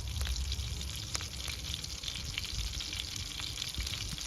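Wood cooking fire crackling, a steady sizzling hiss with scattered small pops.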